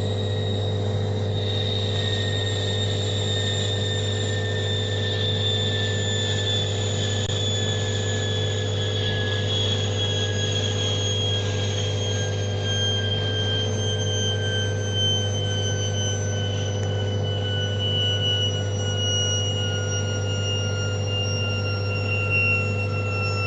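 Washing machine running, a steady low hum under a high motor whine that slowly falls in pitch.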